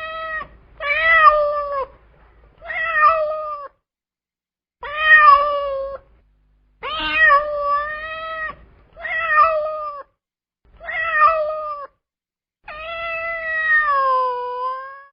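A cat meowing loudly and repeatedly: about seven drawn-out meows, roughly one every two seconds, the last one longer and falling in pitch at its end.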